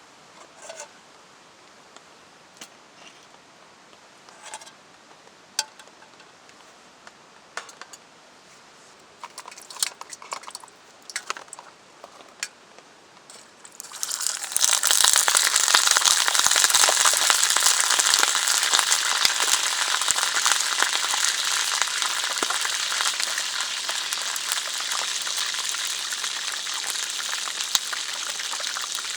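A few scattered light clicks and knocks, then about halfway through food goes into a hot pan and starts sizzling loudly, the frying going on and slowly easing off.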